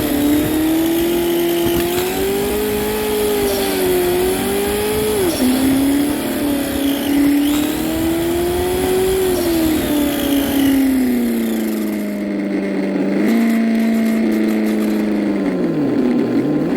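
Radio-controlled race car built from PVC pipe on Axial parts, driving with a steady engine-like tone that rises and falls with the throttle. Near the end the pitch drops sharply twice as it slows.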